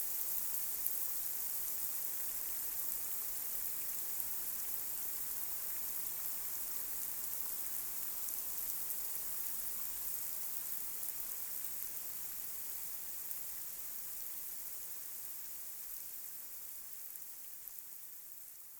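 Light rain falling on a street: a steady hiss with faint scattered drop ticks, slowly fading out toward the end.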